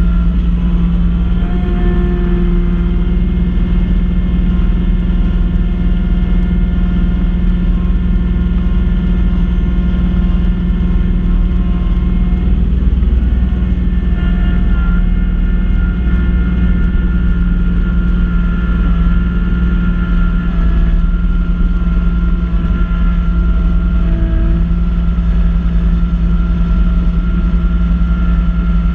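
Kubota B2650 compact tractor's three-cylinder diesel engine running steadily while working a front-mounted snow blower, with a constant whine above the engine note.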